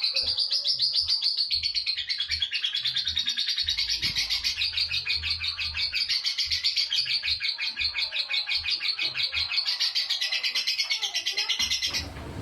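Lovebird singing a long unbroken ngekek: a fast, high-pitched chattering trill that runs on without pause and stops near the end.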